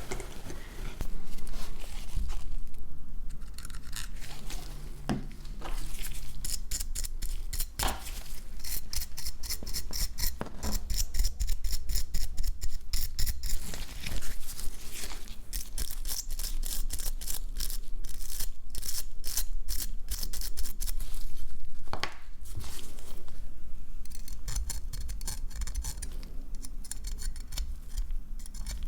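Small hand tools clicking and scraping against a smartphone's parts, in quick runs of ticks with short pauses, over a low steady hum.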